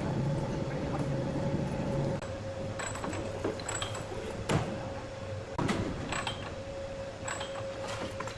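Sawmill machinery running with a steady hum, broken by a few sharp knocks and clatters.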